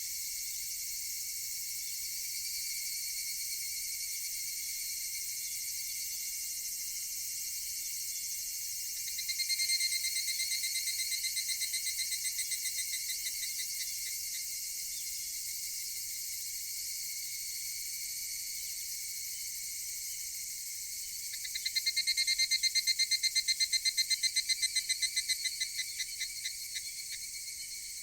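Higurashi (evening cicadas) calling: a steady high chorus, with two nearer calls of fast repeated notes, one about nine seconds in and one about twenty-two seconds in, each fading away over a few seconds.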